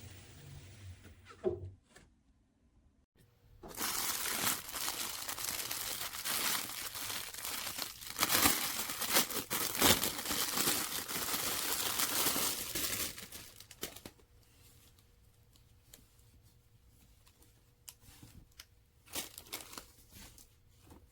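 Loud crinkling, rustling noise close by for about ten seconds, starting after a low hum cuts off and a short silence; then it drops away to faint scattered clicks.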